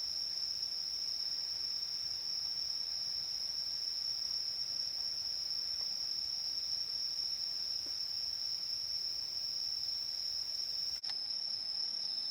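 Chorus of late-summer insects such as crickets singing: one steady, continuous high-pitched trill, with a momentary break about eleven seconds in.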